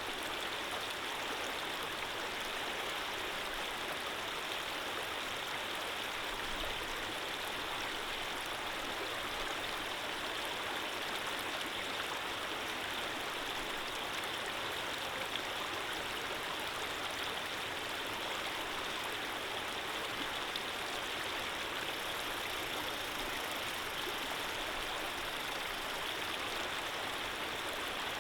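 Running water flowing steadily in an unbroken, even rush.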